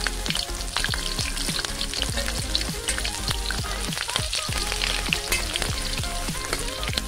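Green chillies and whole dried red chillies sizzling and crackling in hot oil in a black iron kadhai, with many sharp pops over a steady hiss. Near the end a steel spoon stirs them round the pan.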